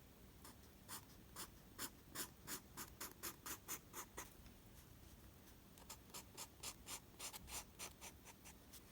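Faint, quick scratching strokes in two runs: the first speeds up to about four strokes a second, stops about four seconds in, and a second run starts again about a second and a half later.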